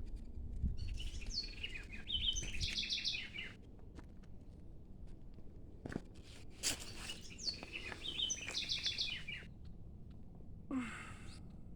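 A songbird singing the same complex phrase twice, each about three seconds long, made of quick repeated notes and trills, with a pause of about three seconds between them.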